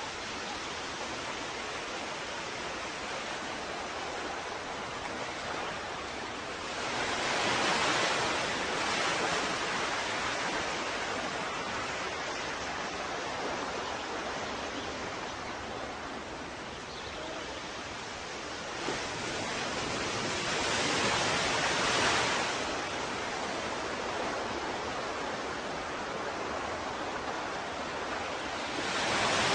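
Ocean surf washing in: a steady hiss of water with two larger waves swelling and breaking, about seven and nineteen seconds in, and another building at the end.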